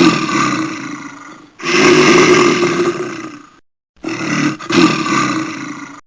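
Bear roaring: three long, rough roars in a row, the first already under way, the next two about two seconds each with a short gap between them.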